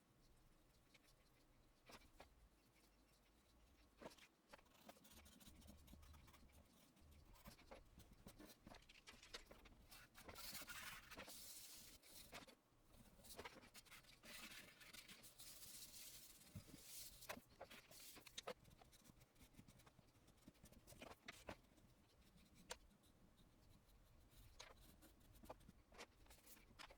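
Faint scratching of a soft pastel pencil on pastel paper, in scattered short strokes and light taps, busiest about ten to seventeen seconds in.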